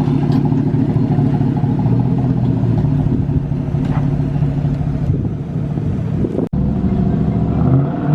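Pickup truck engine running steadily as the red single-cab Silverado is driven off. A sudden momentary dropout comes about six and a half seconds in, after which the engine note rises.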